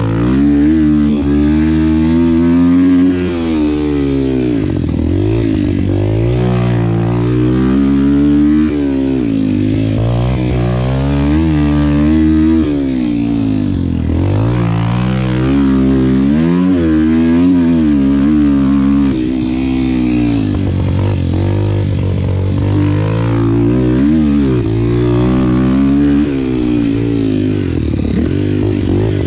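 Single-cylinder pit bike engine being ridden hard, revving up and falling back again and again, its pitch rising and dropping every second or two as the rider works the throttle and gears around the track.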